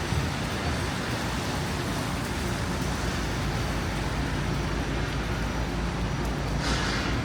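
Steady city street traffic noise with a deep rumble, and a brief hiss near the end.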